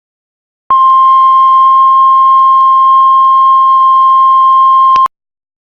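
Heart monitor flatline: one steady, unbroken beep tone starting under a second in, held for about four seconds and then cut off suddenly. The continuous tone signals that no heartbeat is being detected.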